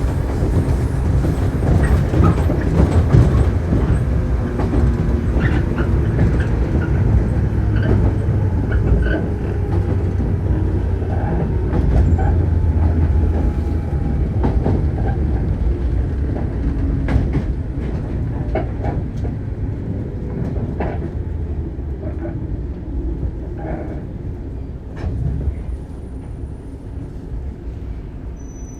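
On-board running sound of a Shinano Railway 115-series electric train: a low rumble of wheels and bogies with scattered clacks over the rail joints. It grows steadily quieter through the second half as the train slows for a station stop.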